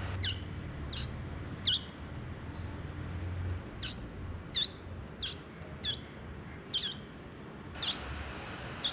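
Hungry baby birds in the nest begging for food with short, high-pitched calls, about ten of them, one every half second to a second, with a brief pause in the middle.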